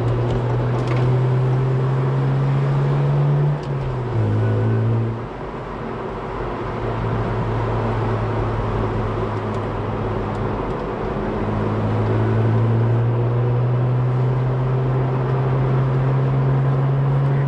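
Car engine heard from inside the cabin while driving, over road noise: the engine note climbs, drops suddenly about four seconds in as a gear is changed, eases off, then holds steady and climbs again in the second half.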